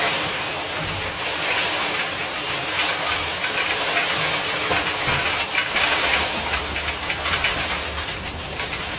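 Hail and heavy rain pelting down: a dense, loud hiss with many rapid sharp ticks of hailstones striking hard surfaces.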